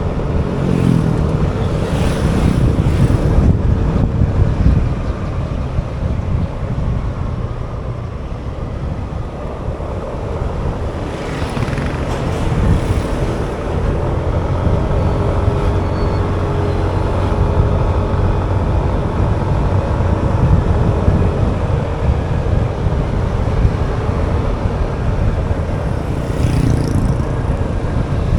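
Motorcycle engine running on the move, with road and wind noise; the engine tone shifts now and then, and hiss swells briefly a few times.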